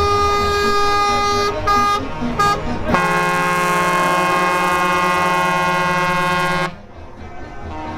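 Truck air horns sounding: a held blast that stops about a second and a half in, two short toots, then a long blast of several notes together lasting nearly four seconds that cuts off suddenly.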